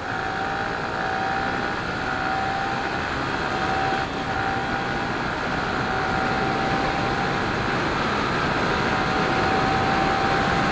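Motorcycle engine held at high revs under hard acceleration, its pitch climbing slowly under heavy wind rush, with a brief dip in level about four seconds in.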